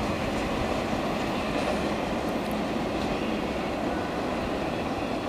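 SEPTA Silverliner V electric multiple-unit train pulling away down the line, a steady rail rumble that slowly fades.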